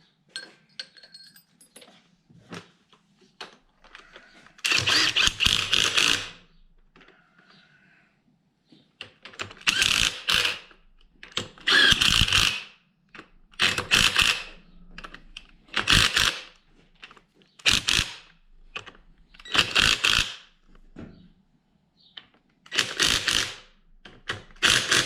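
A power impact wrench driving bolts down one after another in short bursts of about a second each, with pauses of a second or two between them, as the swing case's bolts are run in.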